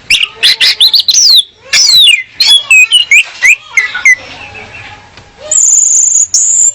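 Orange-headed thrush (anis merah) female calling: a rapid run of loud whistled notes, many of them sliding down in pitch, then after a short pause a high, steady buzzy trill near the end.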